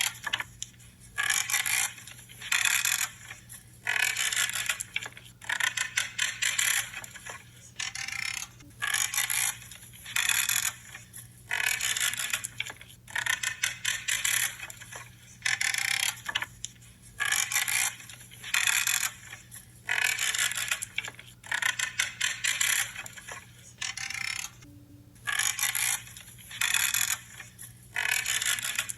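Branches being cut, a creaking, crunching snip roughly once a second as the blades close through the wood.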